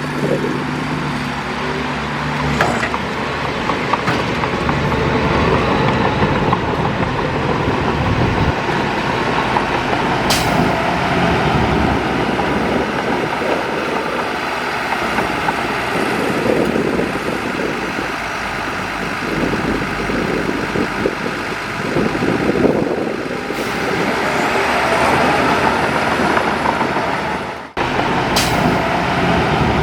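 Diesel earthmoving machinery, a bulldozer working fill soil with dump trucks, running steadily and loudly. Two short, sharp high sounds cut through it, one about a third of the way in and one near the end, with a brief break just before the second.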